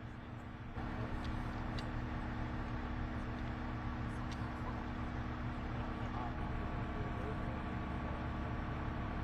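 Steady engine hum, like idling vehicles, with a few steady tones in it and faint voices underneath. The sound steps up slightly under a second in.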